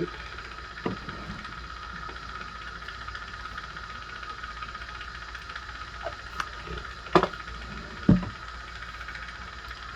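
A steady hiss with a low hum underneath, and a few short, sharp clicks and taps: one about a second in and three close together near the end, as small tools and the chain are handled on the jeweler's bench.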